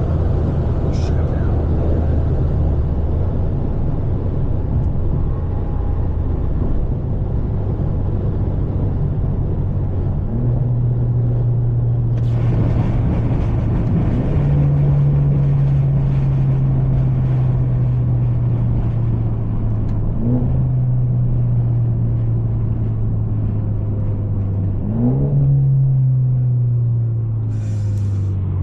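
Straight-piped, catless exhaust of a BMW 530 droning while the car cruises. The engine note climbs under throttle a few times, dips briefly midway, and falls away near the end as the driver eases off.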